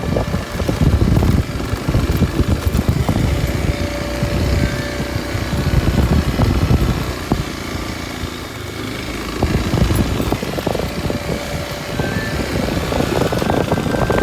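Kawasaki Super Sherpa's air-cooled single-cylinder four-stroke engine running under way on a forest road, with rough, fluttering noise. It eases off about halfway through, then picks up again.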